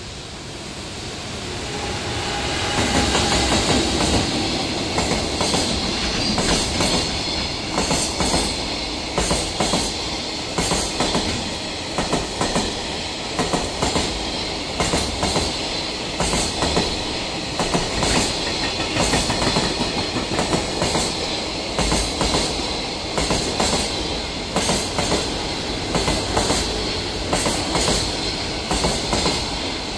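An electric freight locomotive approaches and passes, followed by a long rake of container wagons. The wheels clack rhythmically over the rail joints, set after set, and a thin high-pitched ring runs under the clatter. The sound swells over the first few seconds as the locomotive comes close.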